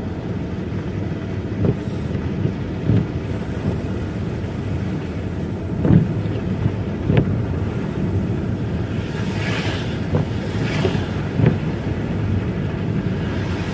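Car driving, a steady low rumble of engine and road noise with occasional short thumps. There are a few brief hissing swells near the end.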